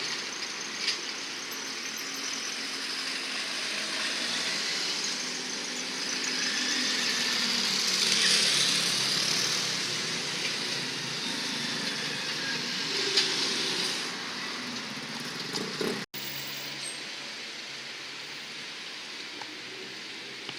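A vehicle passing by, its running noise swelling to a peak about eight seconds in and then fading. It breaks off abruptly about sixteen seconds in, and a lower steady rumble follows.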